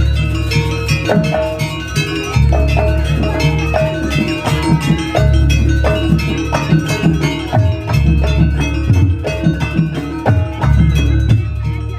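Traditional Banyuwangi percussion ensemble music: drums and ringing struck metal notes in a busy, steady rhythm over a heavy low bass.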